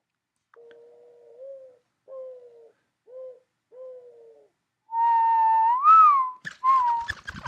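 Mourning dove cooing: one longer soft, low coo followed by three shorter ones. About five seconds in comes a louder whistle that rises and falls.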